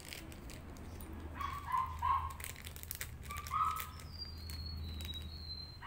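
A few short bird calls in the background, and a thin high whistle that slides slightly downward near the end. Under them, the crinkle of a small plastic bag being handled and a low steady hum.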